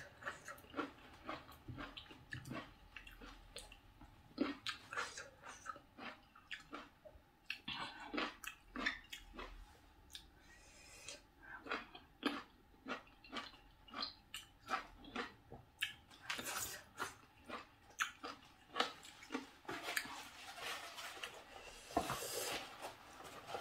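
A person chewing and eating red grapes: short, irregular mouth clicks and smacks. A paper tissue rustles near the end.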